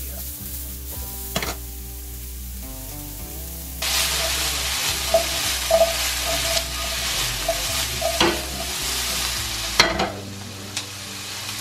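Halved potatoes and red onion chunks sizzling in hot oil in a skillet over a gas flame, tossed in the pan with a few sharp knocks. The sizzle gets much louder about four seconds in.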